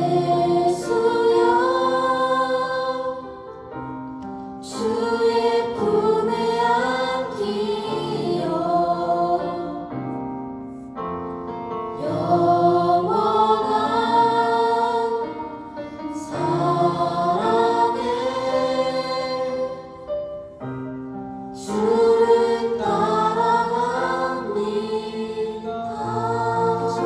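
A choir singing a praise and worship song in phrases of a few seconds, with short pauses between them.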